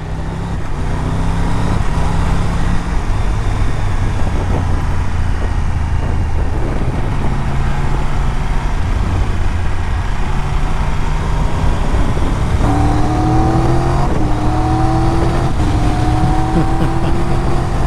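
Triumph Tiger 1200 Rally Explorer's inline-triple engine at motorway speed, under heavy wind rush. From about two-thirds of the way in, the engine note rises in several steps, each broken by a short dip, as the bike accelerates through the gears.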